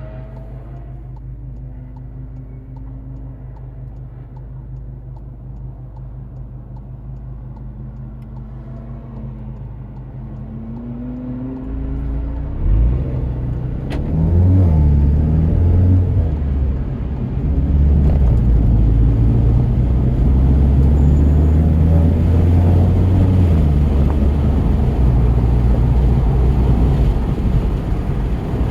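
2017 VW GTI's turbocharged four-cylinder engine running light at low revs, then pulling hard under throttle from about twelve seconds in, its pitch rising and falling with a brief drop around sixteen seconds.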